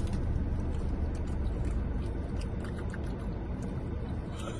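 Steady low background rumble, with a few faint clicks and rustles over it.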